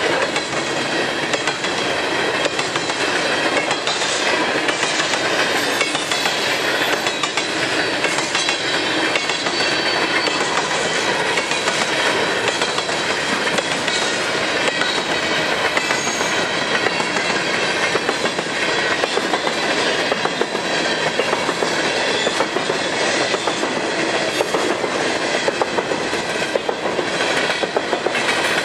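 Empty covered hopper cars of a long freight train rolling past at steady speed, their wheels clicking rhythmically over the rail joints.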